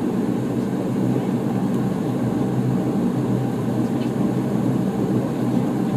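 Dash 8 Q400's Pratt & Whitney PW150A turboprop engines and propellers running steadily, heard from inside the passenger cabin as a constant, mostly low-pitched drone.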